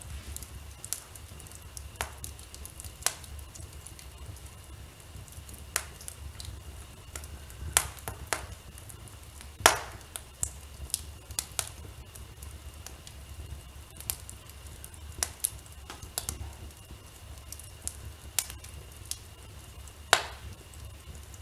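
Wood fire crackling in a fireplace, with irregular sharp pops and snaps at no steady rhythm. The loudest pop comes about ten seconds in, and another strong one near the end.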